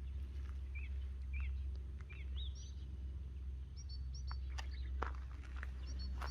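Small birds chirping in short, repeated calls over a steady low rumble, with a few sharp clicks or rustles in the second half.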